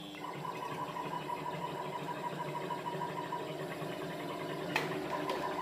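JK3636 CNC metal engraving machine running, a steady machine hum with a held whine, and a sharp click about five seconds in.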